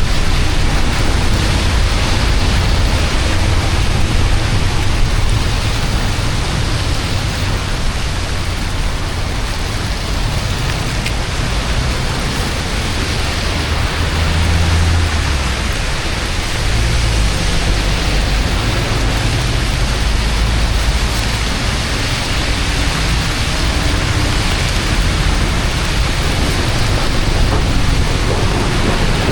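Steady, loud rushing noise of water, with a deep rumble underneath and no pauses.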